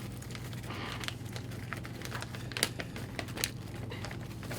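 Donut packaging being handled and opened: scattered crinkles and small clicks, with a couple of sharper snaps, over a steady low hum.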